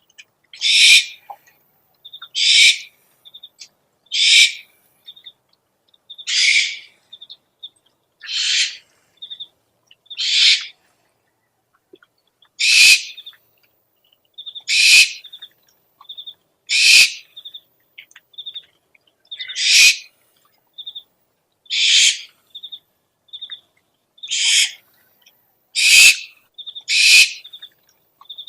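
An owl giving harsh, rasping screech calls, each about half a second long, repeated roughly every two seconds, with short quick chittering notes between them.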